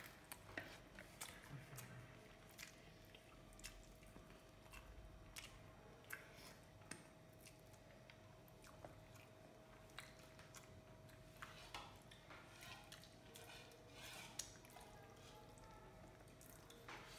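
Faint eating sounds from someone eating rice and curry with their hands: irregular soft chewing and small wet mouth clicks and smacks, over a faint steady hum.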